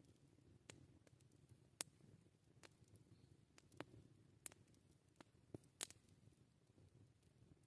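Campfire crackling: faint, irregular pops and snaps of burning wood, the sharpest just under two seconds in and near six seconds in, over a soft low background.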